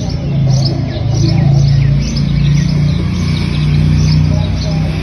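Small birds chirping over and over, several short high chirps a second, over a steady low drone.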